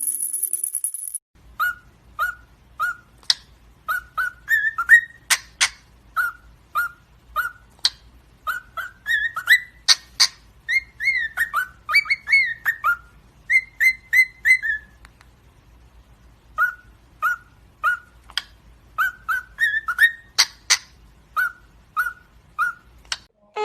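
Pet parrot whistling a long string of short chirping notes, a few rising or dipping in pitch, mixed with sharp clicks, with a brief pause about two-thirds of the way through. A high rattle of maracas is heard for about the first second.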